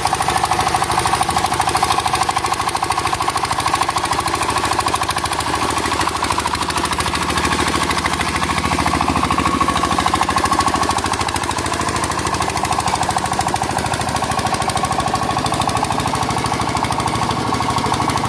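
Single-cylinder diesel engine of a walking tractor (power tiller) running steadily, with a rapid, even knocking beat.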